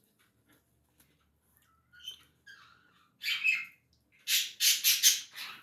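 A bird squawking: a few harsh calls, then a quick run of about five louder squawks near the end.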